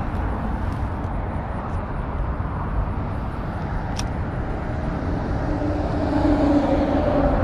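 Steady rumble of highway traffic, with one sharp click about four seconds in. Near the end a passing vehicle's engine hum grows louder.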